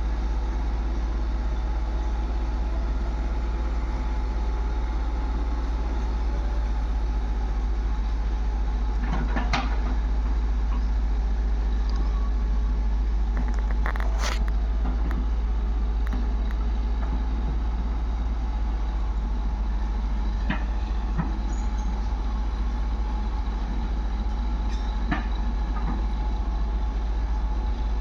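Heavy diesel machinery running steadily with a deep rumble, with a few sharp metallic clanks scattered through.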